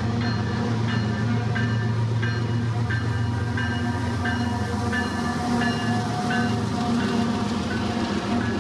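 Approaching freight train led by CP 7012, an EMD SD70ACU diesel locomotive: a steady low engine drone, with a short high ringing tone repeating about twice a second over it.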